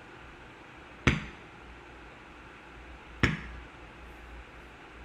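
Two sharp knocks, each with a brief ringing tail, about two seconds apart.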